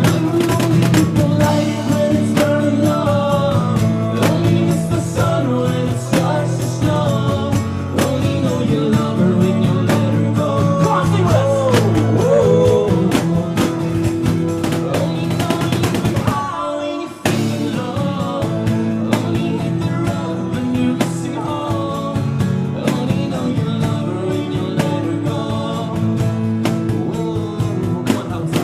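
Band music with guitar and drum kit playing an instrumental passage of a pop-folk song, with wordless vocal lines over it. The music drops out briefly about two-thirds of the way through, then picks up again.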